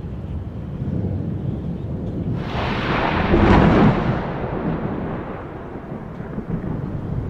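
A thunderclap: a crackling crash builds about two and a half seconds in, is loudest about a second later, then rolls off over a couple of seconds, over a steady low rumbling background of the storm.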